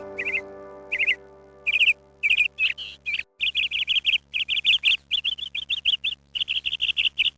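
A bird chirping in quick runs of short, high notes, several a second, with brief pauses between runs. A held music chord fades out under it and stops about three seconds in.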